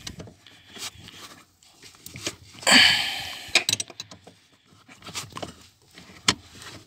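Handling noises: a few sharp clicks and knocks, with a short, louder rustling burst about three seconds in.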